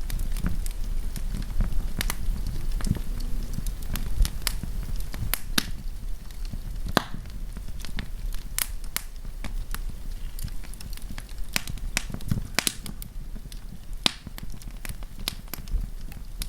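Wood campfire burning, with irregular sharp crackles and pops over a low steady rumble of the flames.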